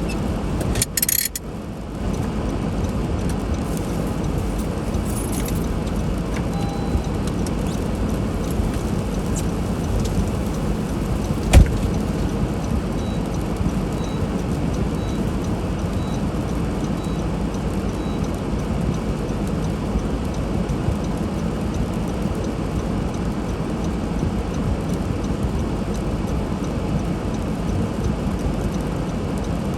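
Steady road and tyre noise of a car driving through snow, with a single thump about a third of the way in and faint ticking about once a second for several seconds in the middle.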